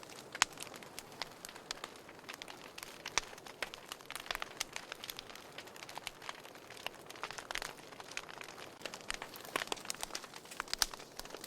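Wood fire burning in a fireplace: a steady soft hiss with irregular crackles and sharp pops, a few louder snaps among them.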